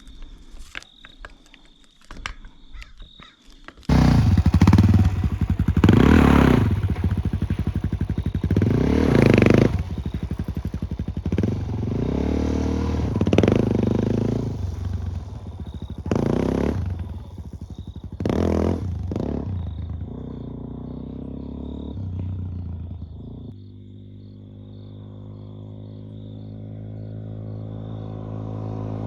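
A few faint clicks, then about four seconds in a motorcycle engine comes in suddenly and loud, revving up and down in repeated throttle surges. Near the end it settles into a steady engine note that slowly grows louder.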